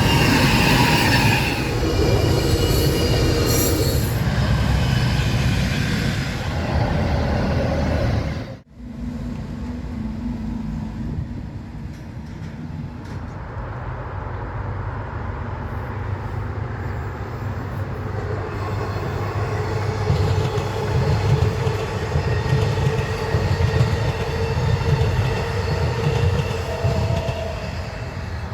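Train running past, with several high-pitched tones over the rumble for the first eight seconds or so. After an abrupt cut, a steadier, lower train rumble with a faint hum follows.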